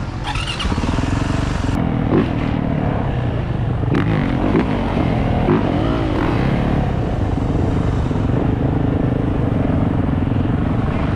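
Dirt bike engines running, with the pitch rising and falling several times around the middle as the bikes are revved.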